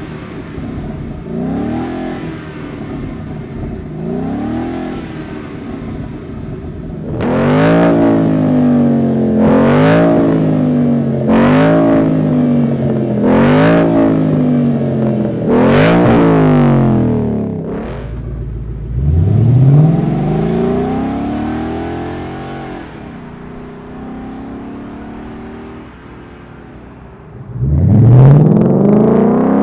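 A 2011–2014 Mustang GT's 5.0L V8 heard through its exhaust, revved in repeated throttle blips with the pitch climbing and falling each time. It starts with light blips, then about five hard revs roughly two seconds apart, and settles to a burbling idle with one more rev. Near the end it suddenly surges much louder, like a fresh start-up.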